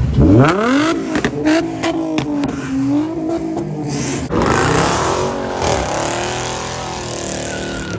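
Ford Mustang engine revved hard, its pitch shooting up and held at high revs with a few sharp exhaust pops. About four seconds in a loud hiss of spinning tyres joins it, as in a burnout.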